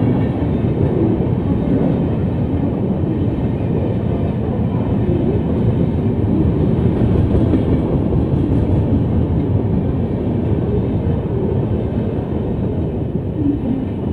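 Indian Railways express train running through a station at speed without stopping: a loud, steady rumble of the coaches rolling over the rails.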